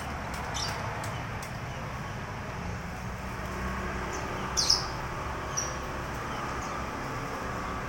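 Small songbirds giving a few short, high chirps, the clearest about four and a half seconds in, over a steady low background rumble.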